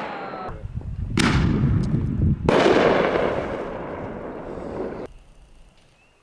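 Fireworks going off: two sudden bangs about a second and a half apart, each followed by a noise that fades away over a second or more.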